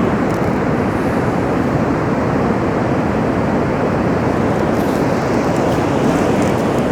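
Steady rushing noise of wind and ocean surf, with no let-up.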